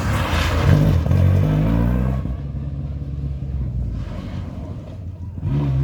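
Historic rally car engine revving hard as it accelerates past, rising in pitch, then fading away; the revs climb again near the end.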